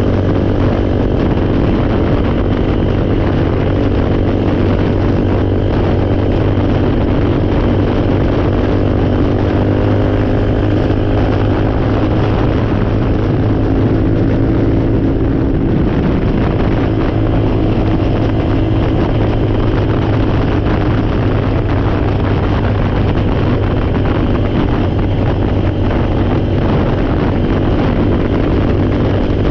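Four-wheeler (ATV) engine running steadily at an even speed, loud and close.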